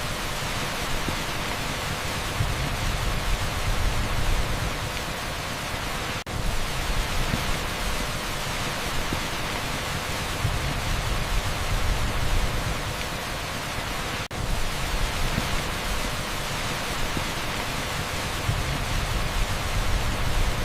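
Heavy rain pouring onto an asphalt street: a dense, steady hiss with a low rumble underneath. Two brief dips in level break it, about eight seconds apart.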